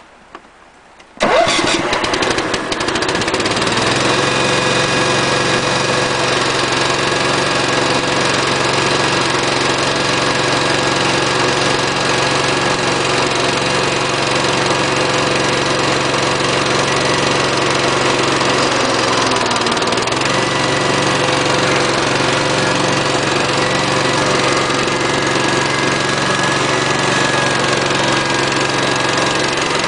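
Small garden-tractor engine starting about a second in, then running steadily.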